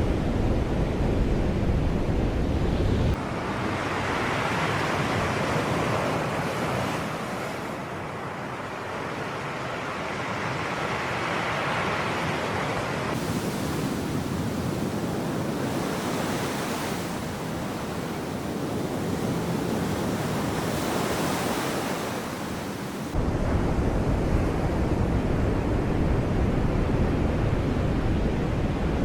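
Sea waves breaking and washing in, swelling every five or six seconds. A low wind rumble on the microphone cuts out about three seconds in and comes back suddenly about three quarters of the way through.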